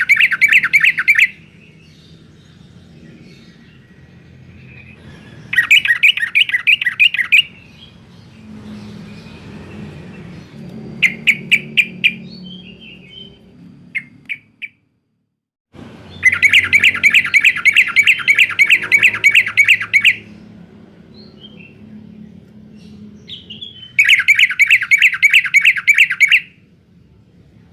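Yellow-vented bulbul (trucukan) singing in vigorous, chattering bursts of rapid repeated notes, about eight a second. There are five bursts of one to four seconds each, the longest a little past the middle, over a low background hum.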